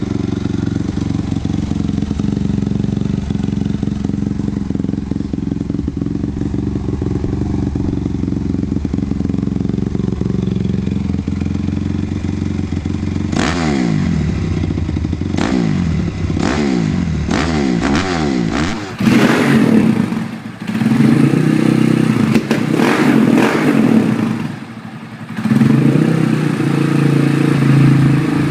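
Honda CRF250 single-cylinder four-stroke dirt bike engine idling steadily, then blipped in a quick series of revs, each rising and falling back. After a change of recording, it is revved hard and held high, dropping off briefly twice.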